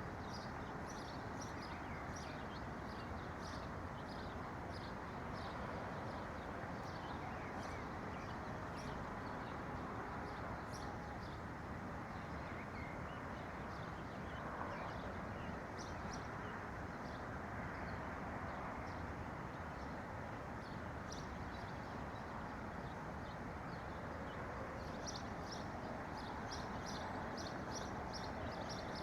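Small songbirds chirping in runs of short, quick, high notes, busiest near the start and again near the end, over a steady even background noise.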